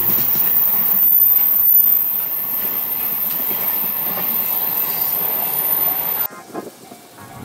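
Container freight train wagons rolling past, a steady rumble of wheels on rail with a very high, thin wheel squeal above it. About six seconds in the sound cuts off abruptly to a much quieter background.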